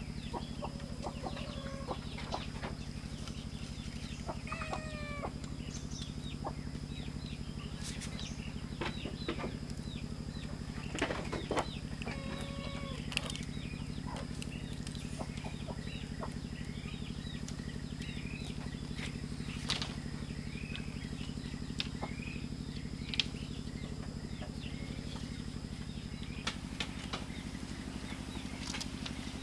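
Birds calling in short chirps, with a few longer pitched calls around five and twelve seconds in, over a steady high whine and a low steady hum.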